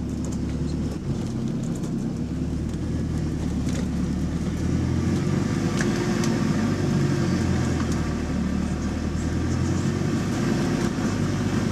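Diesel engine of a double-decker bus running steadily under way, heard from inside the bus, with its note growing a little louder about halfway through. The bus has a faulty turbocharger, which the uploader calls a bad turbo.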